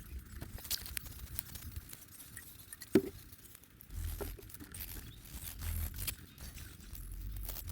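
Close rustling and crinkling with scattered small clicks and a low rumble, like bedding or gear being handled near the microphone, with one sharper click about three seconds in.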